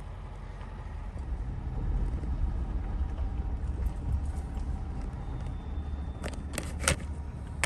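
Vehicle driving along a rough road: a steady low rumble, with a few sharp knocks and rattles near the end, the last one the loudest.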